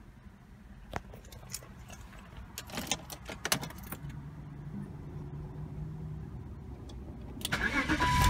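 Keys rattling and clicking as the ignition key of a BMW 523i (E39) is put in and turned, then a low steady hum once the ignition is on. Near the end the starter cranks the 2.5-litre straight-six and it starts, much louder than the rest.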